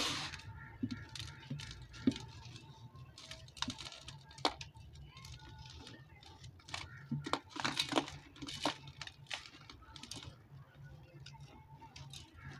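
Dry, dusty chunks of red dirt and sand-cement crumbling and crunching apart, in irregular crisp crackles with a louder crunch at the start and a busier run of crunching about two-thirds of the way through. A steady low hum lies underneath.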